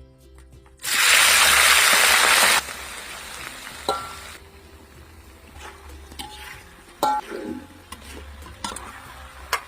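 Frying in a pan of hot oil: a loud burst of sizzling about a second in that drops off sharply after nearly two seconds, then quieter frying with a few clinks of a utensil being stirred against the pan.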